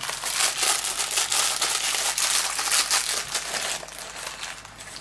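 A plastic bag of LEGO pieces being opened and emptied, the plastic crinkling with many small crackles.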